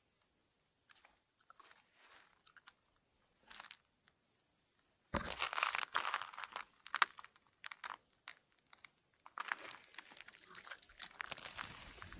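Irregular crunching: a few faint clicks at first, then denser, louder crunching about five seconds in and again near the end.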